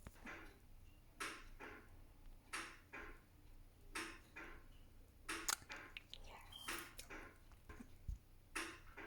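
Faint ticking, often in pairs, repeating about once every second and a half.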